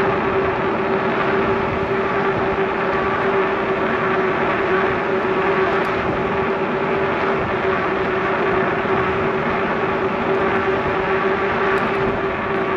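Steady rush of wind and rolling noise from a bicycle ride, with a constant low hum running under it.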